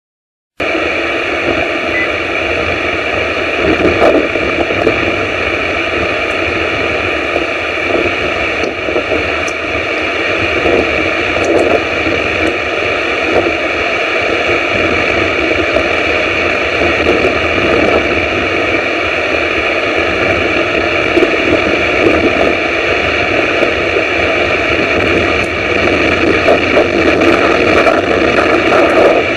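Wind and rain from a storm hitting an outdoor camera's microphone: a loud, steady rushing noise that swells slightly in occasional gusts.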